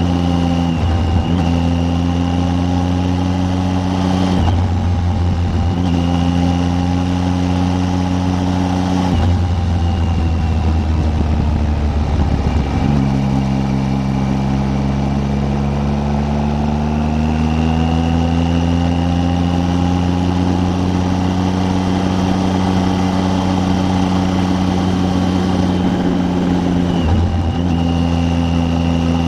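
Triumph Tiger 800 three-cylinder motorcycle engine running under way. The engine note breaks off briefly a few times and comes back at a new pitch, and it rises slowly through the middle.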